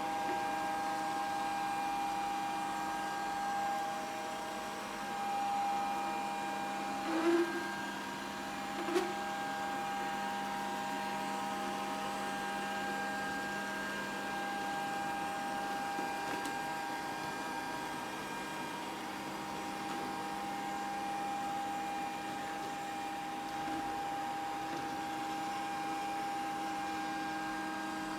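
Grundig VCR 2131 robot vacuum running, a steady motor hum with a whine, broken by two short knocks about seven and nine seconds in.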